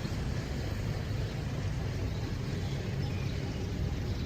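Steady low rumble with an even hiss above it: constant background noise with no distinct events.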